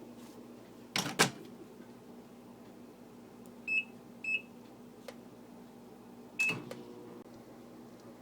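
Microwave oven being operated: two loud clicks of the door, then two short keypad beeps, and a third beep with a click, after which the oven runs with a steady hum.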